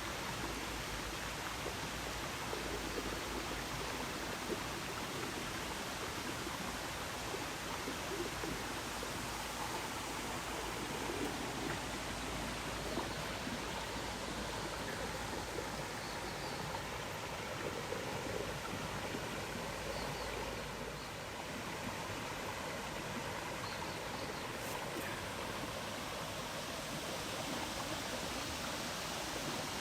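Mountain stream flowing steadily: an even, unbroken hiss of running water.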